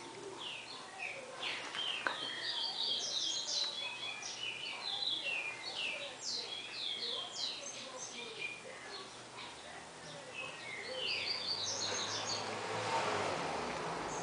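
A bird singing: quick phrases of high chirps and short downward-sweeping notes, with a pause partway through. Near the end comes a short breathy, rasping sound.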